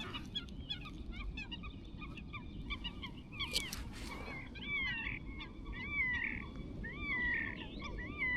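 A bird calling over and over, a loud arching note about once a second through the second half, with fainter chirps of other birds before it.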